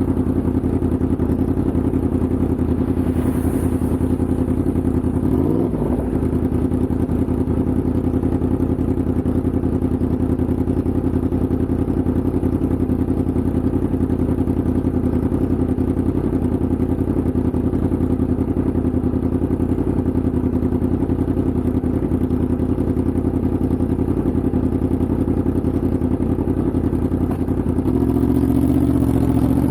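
Yamaha MT-10's crossplane inline-four engine running at a steady speed under way. About six seconds in the revs briefly dip and come back, and near the end the note drops lower.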